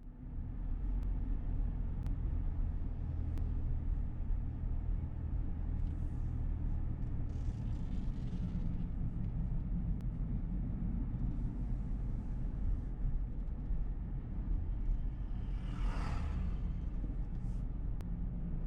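Steady low road and engine rumble inside a moving car's cabin, with a few faint ticks and a brief louder rush near the end.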